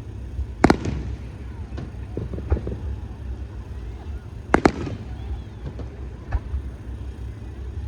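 Aerial fireworks shells bursting: two loud booms about four seconds apart, with several smaller cracks in between and after, over a steady low rumble.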